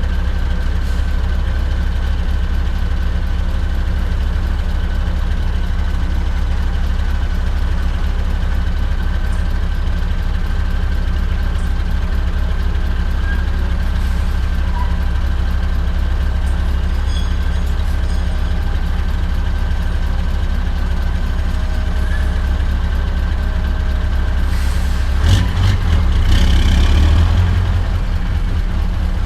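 Straight-piped Scania R580 V8 truck engine running steadily with a deep rumble and a thin steady whine above it. Near the end comes a louder burst of noise with a few sharp clicks.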